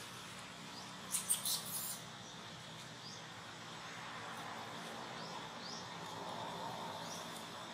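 Quiet outdoor ambience with faint, very short high chirps from birds every second or two, and a brief run of four or five sharp crackles about a second in.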